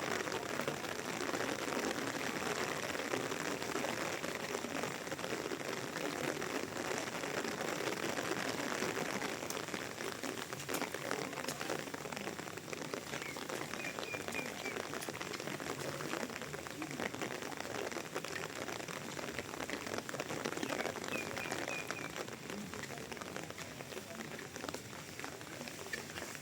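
Steady rain falling and pattering on surfaces. Two brief runs of short high chirps stand out from it, one about halfway through and one a few seconds later.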